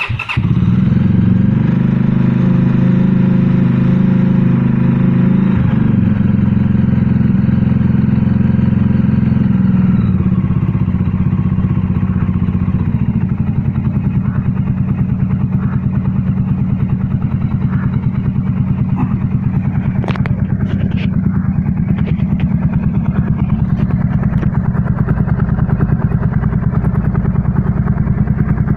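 Motorcycle engine catching and running, at a faster idle for about the first ten seconds, then settling to a slower, steady idle with an even beat.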